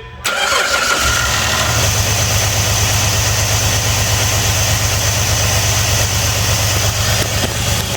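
Car engine starts about a third of a second in and settles into a steady idle, with a hiss above the engine note, while induction cleaner is fed into the running engine's intake.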